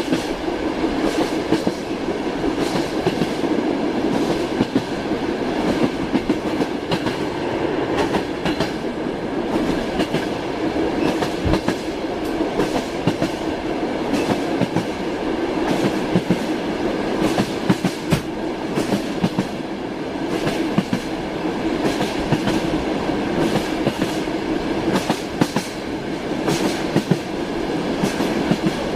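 Train wheels clattering over rail joints: a steady running rumble of a railway carriage with a continual run of clickety-clack knocks.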